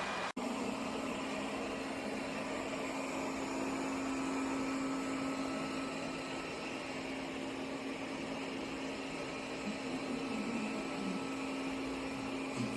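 Airzeen R7 robot vacuum cleaner running: a steady motor hum with a low droning tone. The sound cuts out for an instant just after the start.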